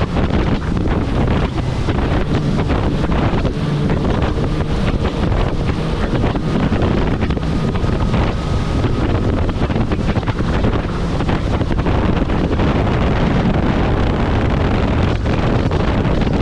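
Kawasaki jet ski running at speed over the water, with loud, steady wind rushing over the microphone.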